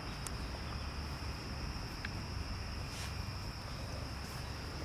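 Insects chirring in one steady high drone over a low rumble, with a few faint clicks.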